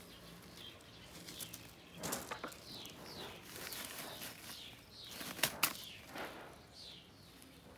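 Birds chirping: repeated short, quick chirps that fall in pitch. A few sharp clicks come with them, the loudest two close together about five and a half seconds in.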